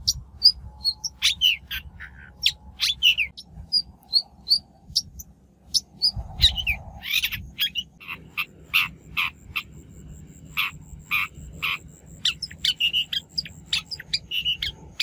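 Shrike (bách thanh) calling: short high chirps mixed with harsh, rasping notes. In the second half it gives a run of harsh notes at about two a second, over a faint steady high-pitched hum.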